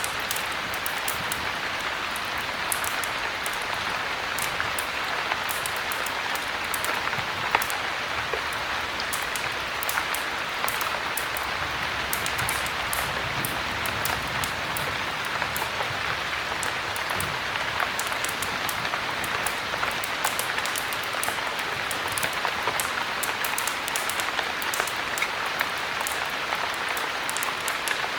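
Steady heavy rain, an even hiss throughout, with frequent small sharp ticks scattered through it.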